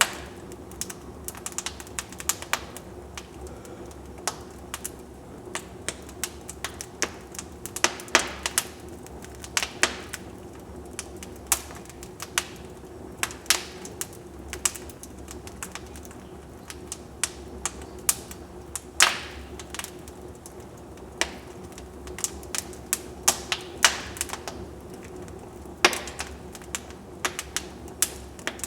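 Wood fire burning in a fireplace, crackling with irregular sharp pops, a few louder than the rest, over a steady low hiss.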